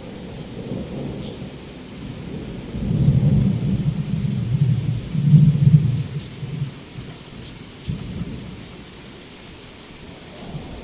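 Heavy rain pouring steadily, with a low roll of thunder that builds about three seconds in, is loudest around five to six seconds, then rumbles away.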